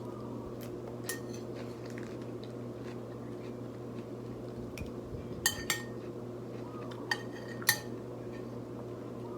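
Eating utensil clinking against a ceramic dish a few times, sharp clicks with a short ring, two quick pairs in the second half, over a steady low background hum.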